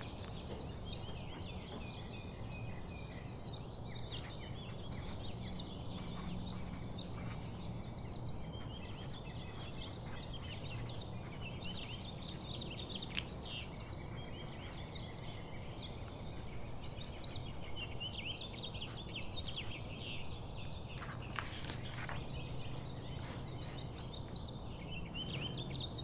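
Many small birds chirping continuously in the background, over a low steady hum.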